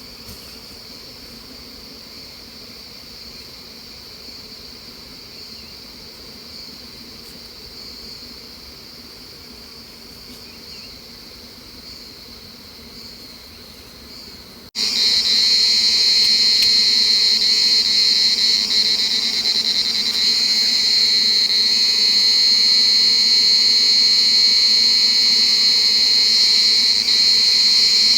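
Steady high-pitched chirring of forest insects over a low buzzing hum of honeybees swarming from an opened hive. About fifteen seconds in, the whole sound abruptly becomes much louder.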